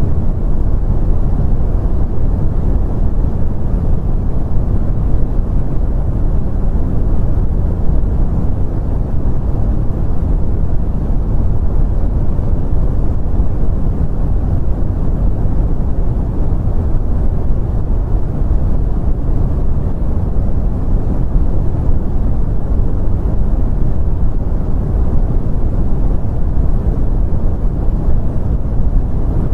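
Continuous brown noise: a steady, deep rumbling hiss with most of its energy in the low end, unchanging throughout.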